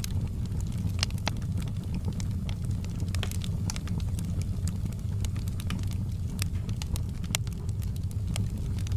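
Fire in a fireplace crackling: irregular sharp snaps, several a second, over a steady low rumble.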